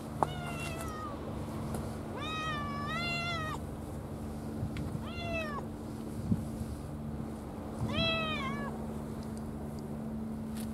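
A cat meowing again and again, about five drawn-out meows spread through the stretch, two of them run together near the start and one with a wavering end near the end. A sharp click comes just after the start, and a steady low hum runs underneath.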